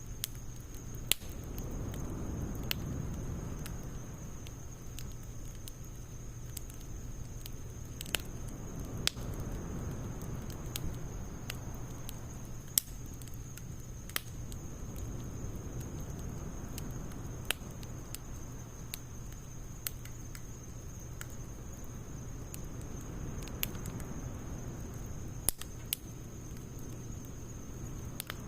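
Wood fire of split logs and pine needles burning: a low steady rush of flame, broken by irregular sharp pops and crackles every second or few.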